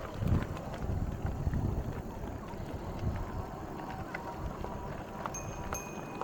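Riding a bicycle on a trail: uneven low wind rumble on the microphone with the rolling and light rattle of the bike, and two brief high squeaks near the end.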